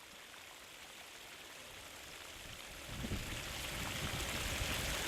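Fly Geyser's hot-water jets spraying and splashing into its terraced pools: a steady rushing hiss that grows louder about three seconds in.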